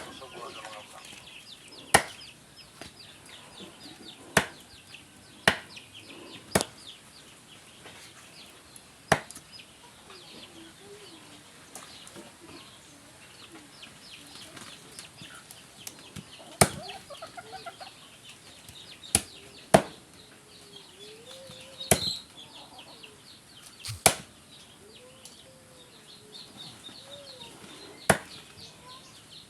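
A knife or cleaver chopping duck on a chopping board: about eleven sharp, separate chops spaced irregularly, usually a few seconds apart. Chickens cluck and chicks cheep in the background.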